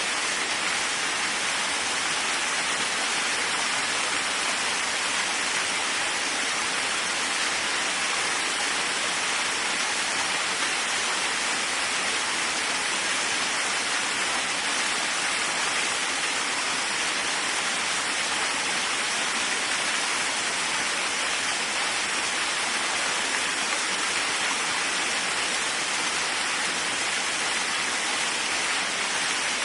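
Waterfall: a steady, unchanging rush of falling water, mostly hiss with little low rumble.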